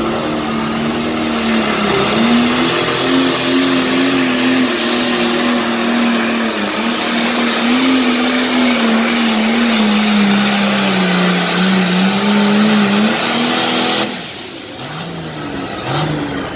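International pulling tractor's engine at full throttle, dragging the weight sled down the track. It holds a loud, wavering note with a high whine rising in the first couple of seconds, then cuts off suddenly near the end as the run ends.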